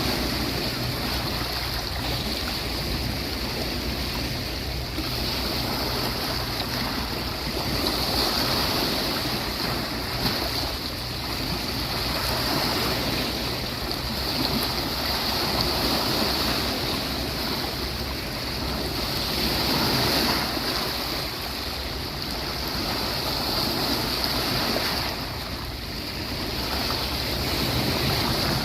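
Sea waves washing onto a beach: a continuous rush of surf that swells and falls back every few seconds.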